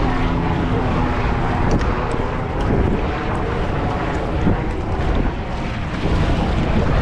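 Wind rumbling on the microphone over open water, with the steady drone of a motorboat engine that fades out about a second in.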